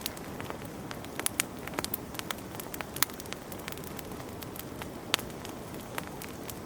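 Wood fire crackling in a fireplace: a steady low hiss with scattered sharp pops, the loudest about three seconds in and again about five seconds in.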